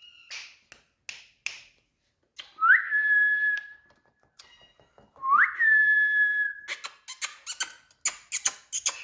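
A pet parrot whistling twice; each whistle slides up and then holds one steady note for about a second. Short sharp clicks and chirps come before, between and after, quickly near the end.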